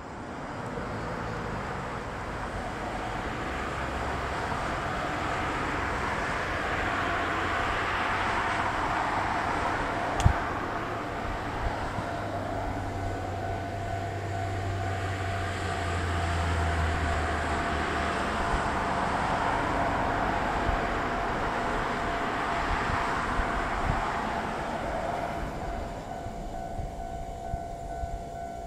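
Kotoden 1200 series electric train approaching and pulling into the station, its running noise growing with a low hum through the middle and a sharp click about ten seconds in. A steady high tone comes in near the end as it draws up to the platform.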